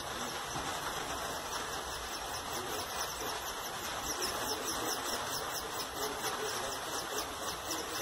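Small cage birds chirping in a quick series of high, downward-sliding notes over a steady hiss.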